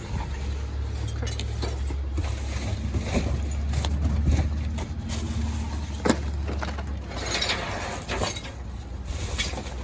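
Items being handled in a dumpster: scattered knocks and clicks, one sharp knock about six seconds in, and rustling or scraping shortly after, over a steady low rumble.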